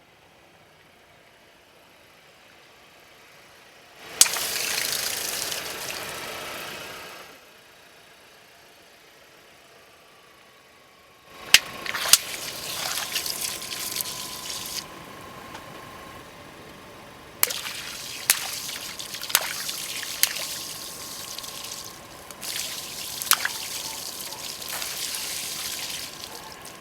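Drink bottles and balloons full of liquid bursting under a car's tyres. A sharp pop about four seconds in is followed by a few seconds of liquid spraying out. Later come a series of pops over continuing gushing and splashing.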